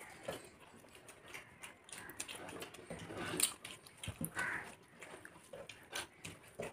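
Two people eating rice and fritters by hand, with wet open-mouthed chewing, lip-smacking and a string of short mouth clicks.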